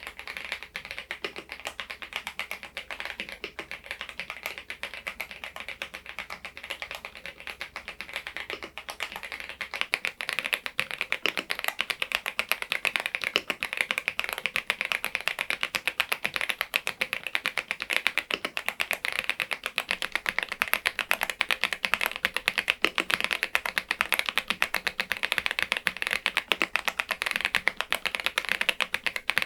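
Typing on an AULA F99MAX mechanical keyboard with Leobog Reaper switches: a fast, continuous run of key clacks that grows louder and denser about ten seconds in.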